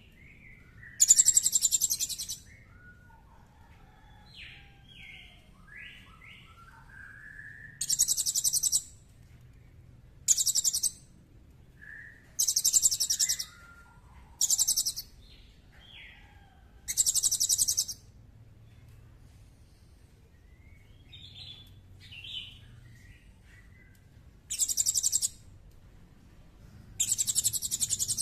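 Recorded songbird song: eight loud, high, rapid trills, each up to about a second long, at uneven gaps, with softer, lower chirps and short whistled notes between them.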